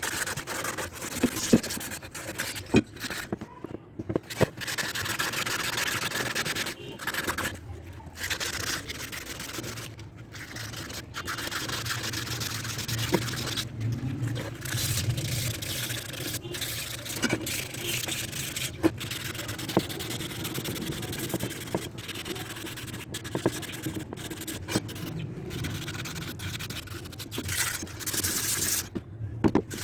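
Hand rubbing and scraping on a Honda CD 70's metal engine side cover: a rasping, sanding-like sound in strokes, broken by short pauses and occasional light clicks.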